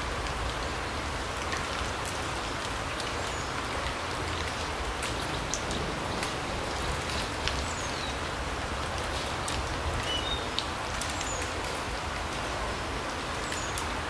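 Steady rain falling in a forest, an even patter with many single drops ticking on leaves and branches. A few short high bird chirps are heard now and then.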